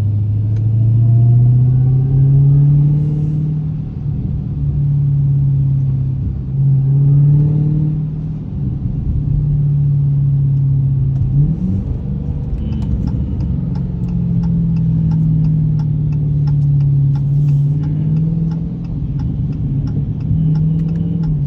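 Dodge Hellcat's supercharged 6.2-litre V8 under way, heard from inside the cabin: it climbs in pitch in the first couple of seconds and again about seven seconds in, then cruises with small rises and falls, with a sudden drop in pitch about eleven and a half seconds in. A fast, light, even ticking joins it in the second half.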